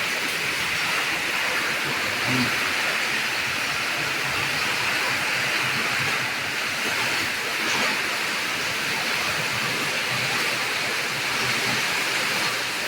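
Rain falling on the roof tiles overhead: a steady, even hiss that the roof makes very noisy.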